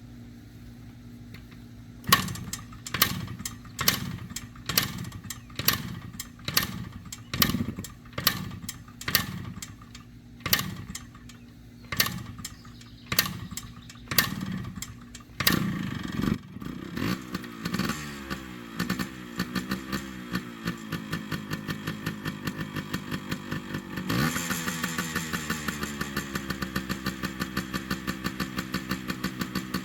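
Yamaha RT100's two-stroke single-cylinder engine being kick-started without choke: more than a dozen kicks, roughly one a second, before it catches about halfway through. It then runs unevenly with its pitch wandering, and about two-thirds of the way in it picks up to a louder, steadier fast idle.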